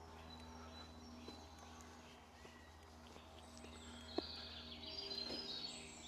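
Faint woodland birdsong, with a burst of high chirping near the end and one sharp tick about four seconds in.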